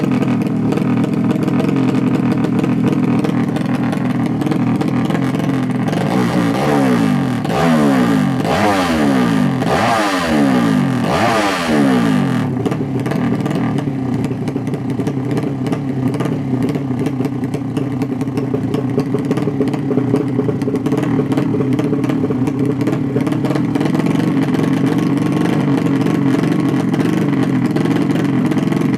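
Drag-racing motorcycle engines running steadily, with one engine revving up in several rising sweeps in a row about six seconds in, for roughly six seconds.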